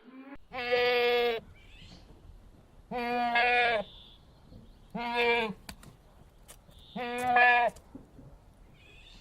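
A farm animal bleating four times, each bleat under a second long and about two seconds apart.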